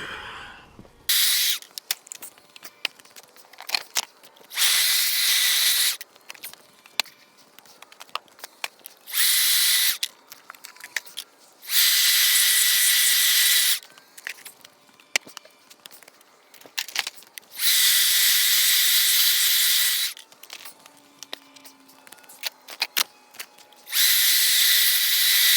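Greenworks 40 V cordless electric leaf blower run in short bursts of one to two seconds, about six times, each a steady rush of air with a motor whine, blowing the remaining bees out of honey supers. Scattered clicks and knocks come between the bursts.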